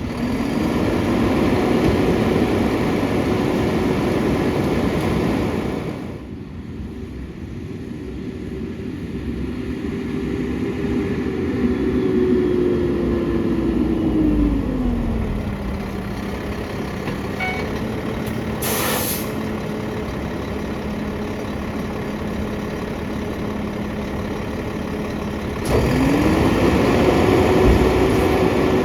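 Mack LR garbage truck's diesel engine running at raised speed while the packer works, settling to idle partway through and speeding up again near the end. A short air hiss comes about two-thirds of the way in.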